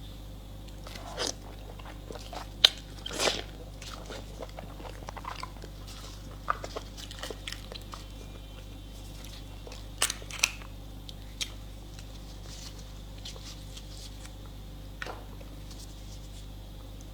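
Close-miked eating: scattered crisp bites and mouth clicks of chewing, in little clusters with pauses between.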